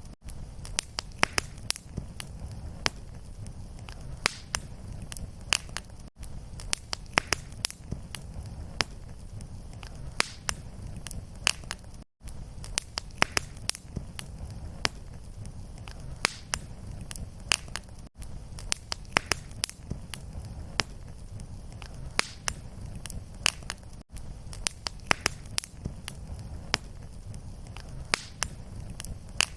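Wood fire in a fireplace crackling and popping, with many sharp snaps over a steady low rumble. Brief gaps about every six seconds mark where the looped recording repeats.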